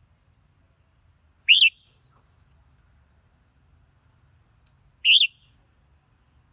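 Red-whiskered bulbul giving two short, loud calls about three and a half seconds apart, each a quick note that rises and falls in pitch.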